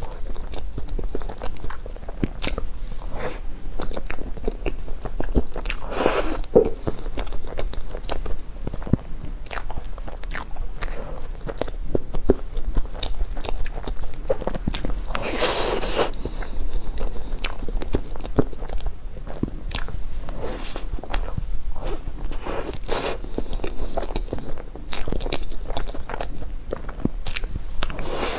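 Close-up eating sounds of crispy-shelled half-baked cheesecake: many small crisp crunches and clicks of chewing, with two longer, louder crunching bites, about six seconds in and around fifteen seconds in.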